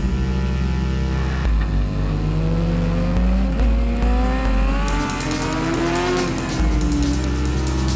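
Racing motorcycle engine accelerating hard, its pitch climbing and breaking off at each gear change, over background music with a steady bass line.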